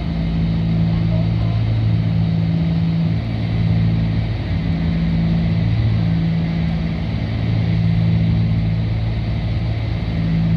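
Cessna 310's twin piston engines and propellers droning in cruise at low power, heard from inside the cabin. The steady drone swells and fades slowly every couple of seconds.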